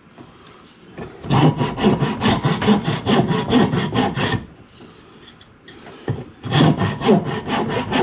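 Hand saw cutting through wood in quick back-and-forth strokes, starting about a second in, stopping for about two seconds near the middle, then resuming.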